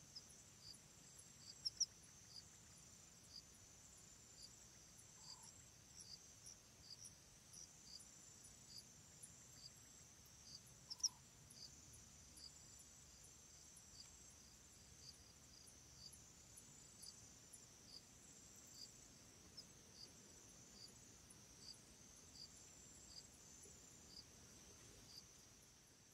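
Faint ambience of insects chirping: a steady high trill with short regular chirps about twice a second. A couple of sharper, louder chirps come near 2 s and 11 s.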